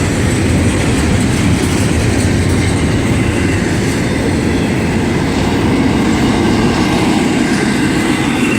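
Cars of a double-stack intermodal freight train rolling past: a steady, loud run of wheel-on-rail noise with a fast clatter of wheels.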